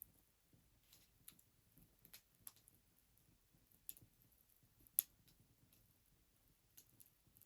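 Wood fire crackling softly, with scattered sharp pops and snaps, the loudest about five seconds in.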